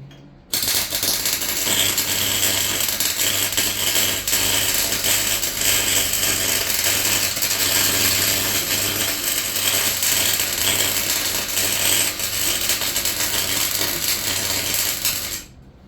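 Welding arc on the van's floor panel: one continuous, crackling run of about fifteen seconds with a steady low hum beneath. It starts abruptly about half a second in and stops abruptly near the end.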